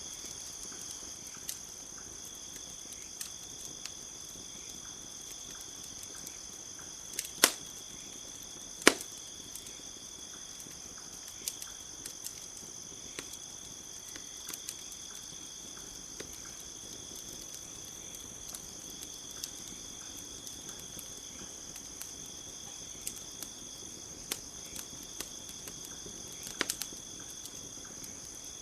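Campfire crackling with scattered sharp pops, the loudest two about seven and nine seconds in and a small cluster near the end, over steady high cricket song.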